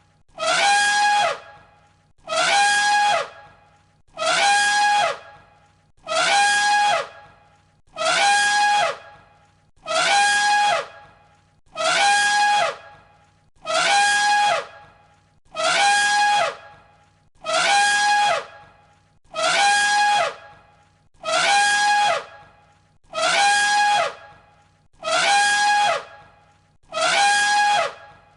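An elephant trumpeting: the same short call, about a second long, repeats evenly about once every two seconds as a loop. Each call is a held high note with a pitch that slides down beneath it.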